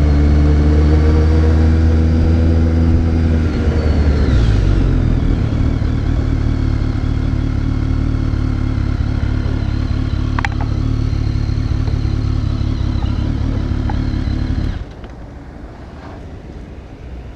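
BMW K1300 R's inline-four engine running, its pitch falling about four seconds in and then holding at a steady idle. The engine cuts off suddenly near the end, leaving faint background noise and a couple of light clicks.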